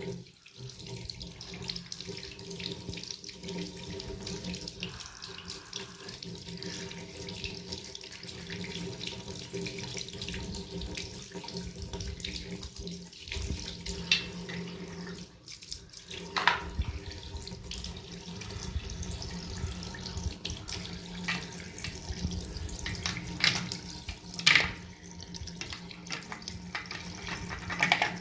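Water running steadily from a tap into a sink, with a few sharp knocks against it, the loudest about two-thirds of the way through and again near the end.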